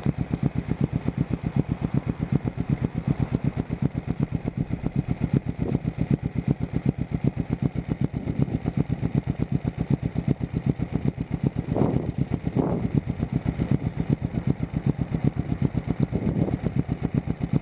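Motorcycle engine idling with an even, pulsing beat.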